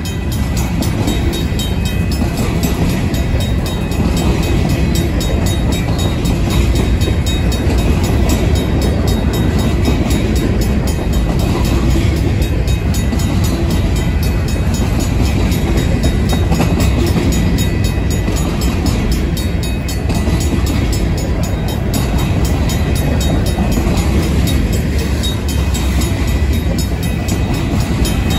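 Freight train cars, covered hoppers and then tank cars, rolling past close by, with a steady rumble of wheels on the rail. A RACO mechanical crossing bell rings on over the top with an even run of strokes.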